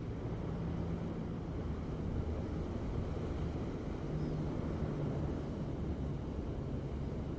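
A steady low engine drone, a hum with a second tone above it, under a rushing noise; the hum shifts slightly in pitch about four seconds in.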